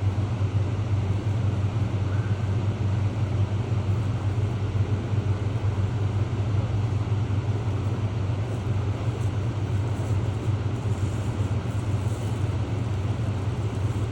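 Steady low engine drone under an even rushing hiss, typical of a canal boat idling in a lock while it fills.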